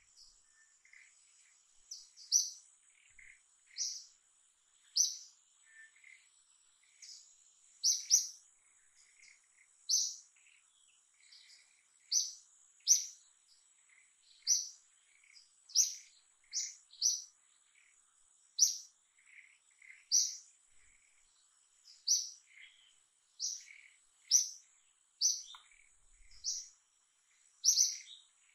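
Birds chirping: short, sharp, high chirps roughly once a second, with softer lower chirps between them, over a steady high-pitched insect drone.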